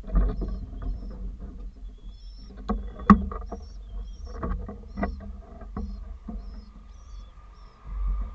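Pigeons: irregular knocks and taps, a few of them sharp, with short high chirps about every second and a low rumble underneath.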